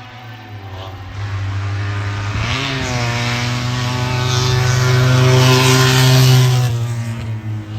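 Hill-climb race car engine running hard under load, getting louder as it approaches, with a brief dip and recovery in engine pitch about two and a half seconds in, then falling away a little near the end as it passes.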